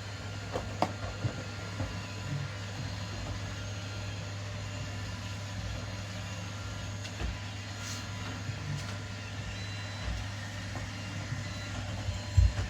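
Several robot vacuums running together: a steady motor and brush hum with a few light knocks scattered through it.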